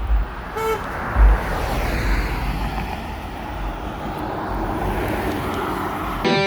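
Outdoor background of a broad engine rumble, swelling through the middle and easing off, with wind knocking on the microphone a couple of times early on. Distorted electric guitar music cuts in just before the end.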